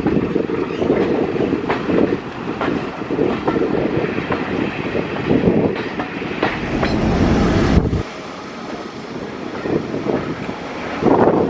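A passenger train's coaches running along the track, heard on board: a steady rumble with repeated clicks of the wheels over rail joints. The rumble drops suddenly about eight seconds in and builds again near the end.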